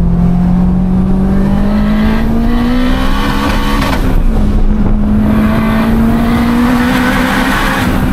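Turbocharged Honda K20 four-cylinder engine of an EP3 Civic Type R pulling hard under acceleration, heard through open windows. Its note rises steadily, drops with a gear change about four seconds in, then climbs again in the next gear.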